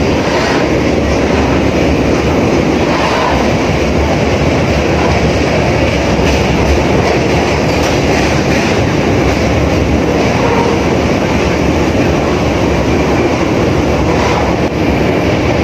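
Circar Express passenger train running across a steel truss bridge: loud, steady running noise of wheels on rails and the bridge steelwork.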